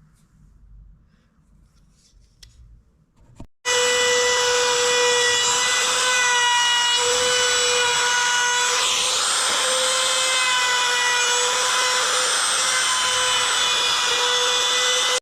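An electric power tool switches on about three and a half seconds in and runs at a steady high whine while working wood, with a rough rubbing noise under the whine.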